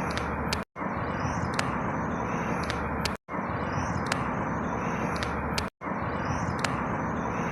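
Outdoor ambience: a steady rushing noise with faint high bird chirps and ticks. The same short stretch repeats about every two and a half seconds, with a brief dropout to silence between repeats, three times.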